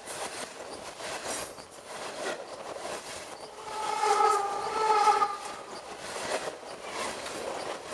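Freight train cars rolling over a camera lying between the rails: a steady noisy clatter of steel wheels on the rails. About halfway through, the train's horn sounds one chord for a second and a half, the loudest thing heard.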